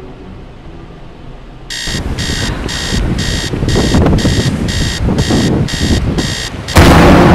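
Electronic alarm beeping, about two beeps a second, over a rumble that builds. Near the end it is cut off by a sudden loud crash.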